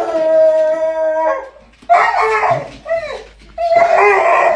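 Dog howling in long drawn-out calls: one held steady until about a second and a half in, a shorter wavering one about two seconds in, and another starting near the end.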